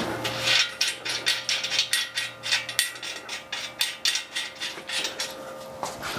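A rapid run of sharp mechanical clicks and knocks, about four a second, lasting most of five seconds, then stopping near the end.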